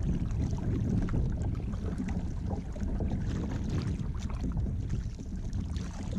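Kayak paddle strokes through weedy lake water: irregular splashes and swishes of the blade, over a steady low rumble.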